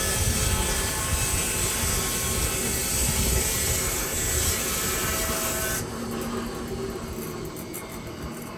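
Woodland Mills HM126 bandsaw mill running a cut: engine and band blade making a loud, steady noise. About six seconds in, the hiss of the blade cuts off suddenly and the engine sound fades down.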